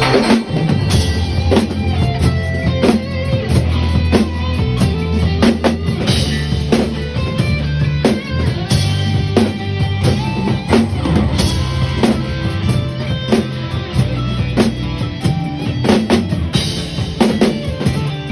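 A drum kit played along to the instrumental part of a recorded pop song, with regular kick and snare hits over the backing track's bass and melody.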